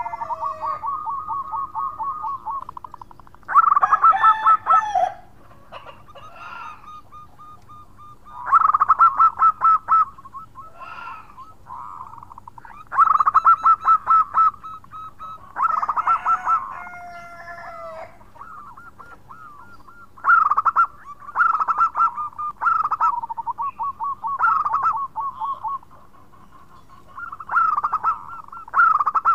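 Zebra dove (perkutut) singing: repeated bouts of rapid, trilling coos around one pitch, some bouts brief and some over a second long, with short pauses between them.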